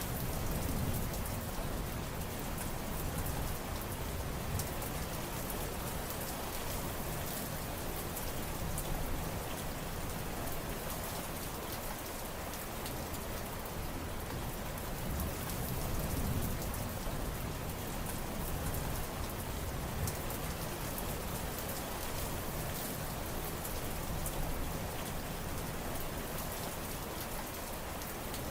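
Steady rain falling, a dense even hiss of drops on surfaces, with a low rumble swelling and fading about a second in and again midway.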